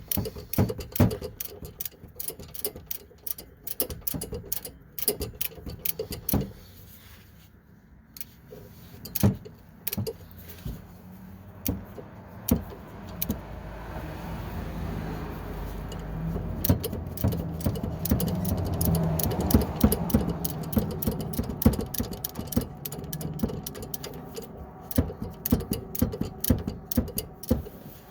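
Ratchet wrench clicking in short, uneven strokes while tightening a sway bar link nut, with little room to swing the handle. A low hum swells in the middle and fades again.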